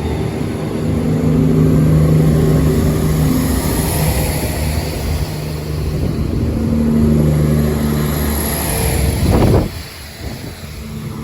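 Class 171 Turbostar diesel multiple unit pulling out, its underfloor diesel engines running under power with a steady drone that shifts in pitch as it gathers speed. The sound drops away sharply about nine and a half seconds in.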